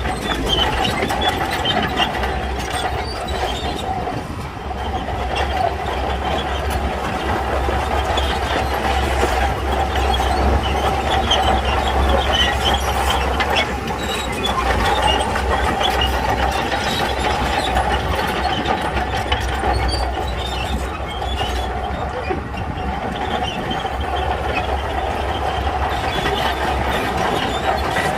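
Shantui crawler bulldozer working: the diesel engine runs steadily under load while the steel tracks clank and rattle, with a steady high whine over the rumble.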